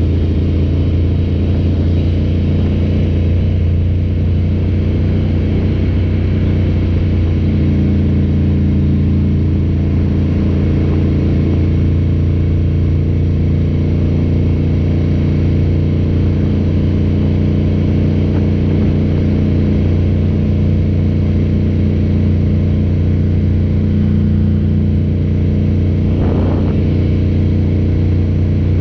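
Ducati cafe racer motorcycle's engine running steadily on a slow ride, a low even drone that holds nearly the same pitch throughout.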